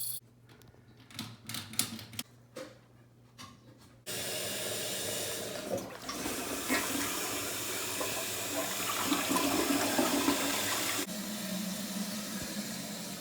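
Toilet flushing: after a few faint clicks and knocks, a loud rush of water starts suddenly about four seconds in and carries on, dropping to a lower, steadier rush near the end.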